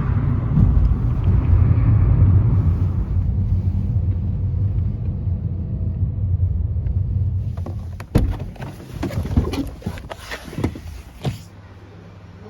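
Train running with a heavy low rumble, then a run of sharp clicks and knocks for a few seconds before it settles to a quieter steady hum.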